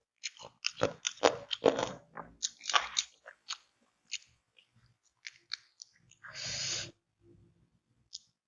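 Close-miked eating of crispy ayam geprek fried chicken with raw cucumber and spinach: crunchy bites and chewing, a quick run of crunches in the first three seconds, then sparser ones, with a half-second noisy burst about six seconds in.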